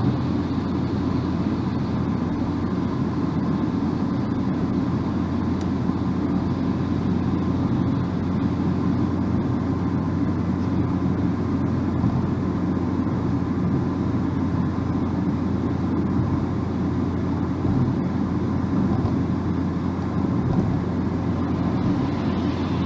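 A car driving at a steady speed: a continuous low drone of road and engine noise with no changes.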